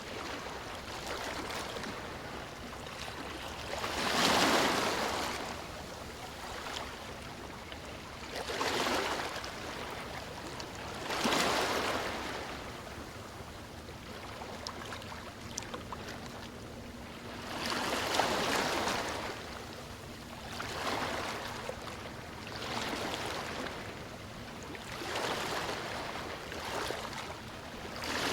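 Ocean waves breaking on a beach. Each wave swells up and washes out every three to seven seconds, over a steady background wash of surf.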